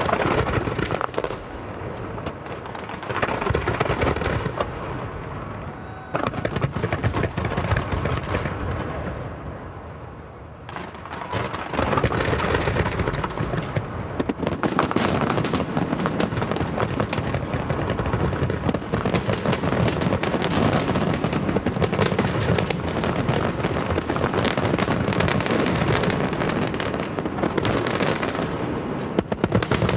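Fireworks display: volleys of loud bangs and crackling over a continuous rumble, with short lulls in the first ten seconds, then near-continuous bursts from about twelve seconds in.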